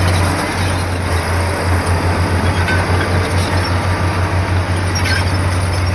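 Diesel engine of heavy earthmoving machinery running at working revs, a loud low throb that pulses rapidly and steadily.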